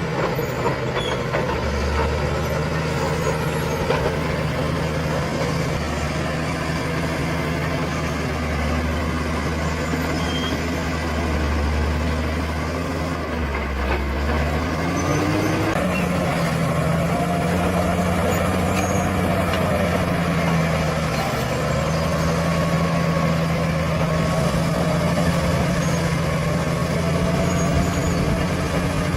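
Bulldozer's diesel engine running steadily under load, with its pitch rising about halfway through as the engine speeds up, then holding at the higher speed.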